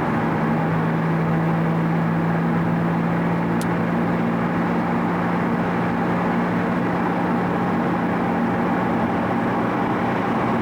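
Car engine running at a steady speed with road and tyre noise, heard from inside the car while cruising; a single brief click about three and a half seconds in.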